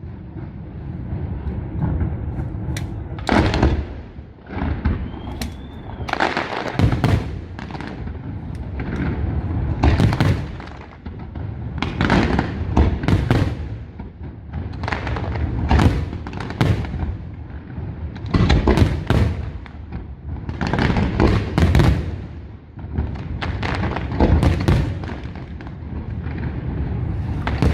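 Aerial fireworks display: shells bursting one after another, about one loud bang every second, each trailing off into a rolling echo, over a steady low rumble.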